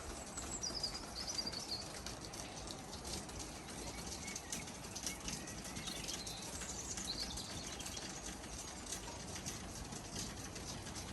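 Birds singing short, high-pitched warbling phrases a few times over a steady hiss of rain with scattered dripping ticks.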